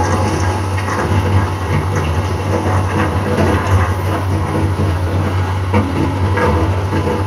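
Sunward excavator's diesel engine running steadily with a deep, even hum, with a few faint knocks scattered through it.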